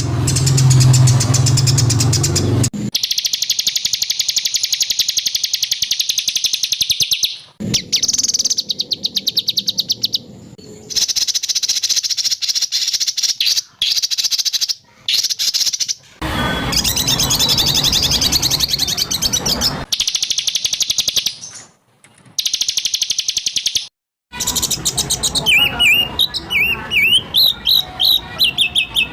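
Cut-together songbird recordings for teaching a caged shama: after a low steady hum in the first few seconds come fast, harsh trills and rattles, broken by abrupt cuts and short gaps, and near the end clear sliding whistled notes.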